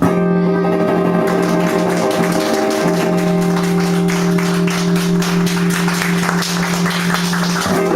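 Live band music: a final chord held steady, with rapid strumming over it, cutting off near the end.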